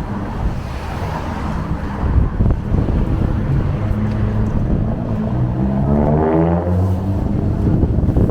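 Street traffic: vehicle engines running close by, one of them revving up in a rising pitch about six seconds in.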